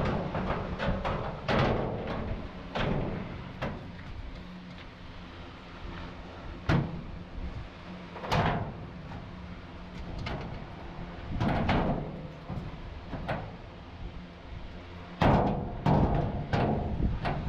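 Irregular hammer blows on the truck cab's sheet metal, about a dozen spread out with pauses between, some ringing briefly, over a steady low rumble.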